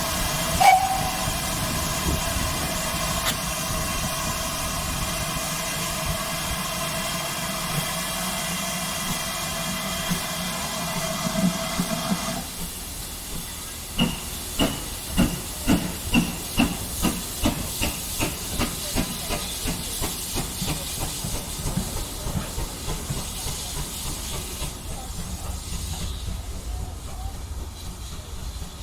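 Steam locomotive letting off a steady hiss of steam with a held tone in it, which stops about twelve seconds in. Then the locomotive pulls away with exhaust chuffs that quicken and gradually fade.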